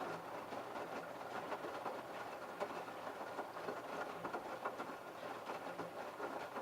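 LG F1222TD direct-drive washing machine running, its drum turning with wet laundry and water that tumble and splash in a steady crackling wash, over a faint motor hum.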